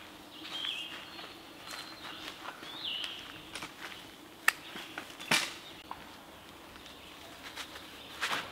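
Birds chirping in short calls, with two sharp knocks about halfway through and a few more clicks near the end, over a faint steady hum.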